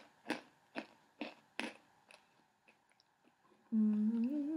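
Crunchy hard pretzels being chewed close to the microphone, four crunches about half a second apart that fade out after two seconds. Near the end comes a short closed-mouth hum that rises in pitch.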